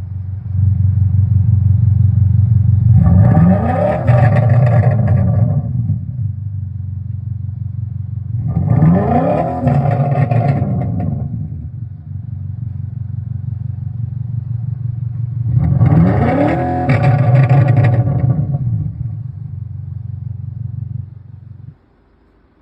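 BMW G26 420d with an EngineVox active exhaust, its speaker-generated exhaust note idling with a low steady drone and revved three times, each rise and fall in pitch lasting about three seconds. The sound cuts off suddenly near the end.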